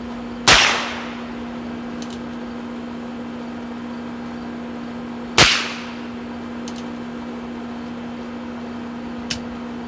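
Two shots from a Heritage Rough Rider .22 rimfire single-action revolver, about five seconds apart, each a sharp crack with a short decaying tail, with fainter clicks between them.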